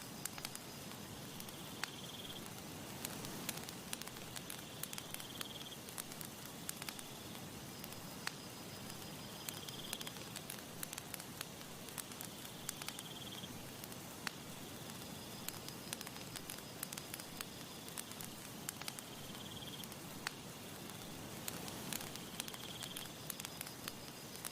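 Campfire crackling: irregular sharp pops and snaps over a soft steady hiss. A short, high chirping trill repeats about every four seconds.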